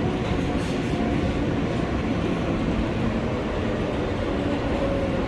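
R143 subway train running along the track, a steady rumble of wheels on rail with a faint motor whine.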